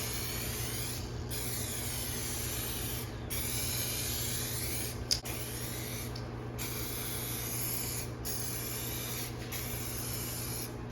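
Spray gun laying clear coat on a car: a high hiss in passes that break off briefly every one to two seconds, over a steady low hum. A sharp click about halfway through.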